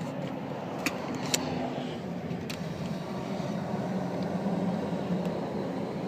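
A few sharp clicks and knocks from a car's front seat being moved and someone climbing into the cramped back seat, over a steady low hum.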